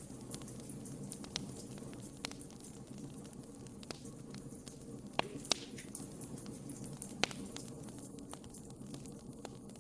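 Wood fire burning in a fireplace: a steady low rumble of flames with scattered sharp crackles and pops, a few louder pops a little after five seconds in and again about seven seconds in.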